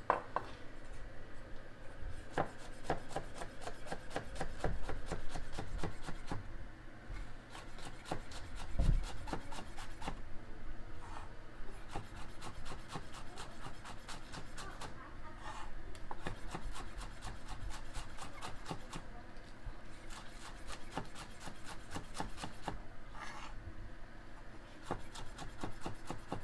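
Chef's knife finely slicing green onions on a cutting board: a fast, steady run of light chopping taps, with a few short pauses.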